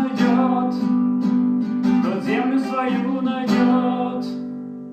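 Acoustic guitar strumming the song's closing chords; the last chord, about three and a half seconds in, rings out and fades away.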